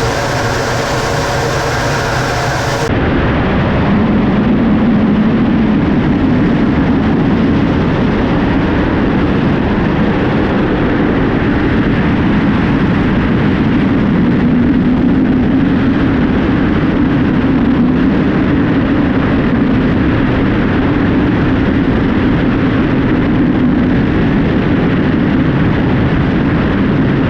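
Su-25 attack jet's twin turbojet engines running. For the first three seconds there is a steady whine of several tones. After a sudden cut it becomes a loud, even roar with a strong low hum that holds steady.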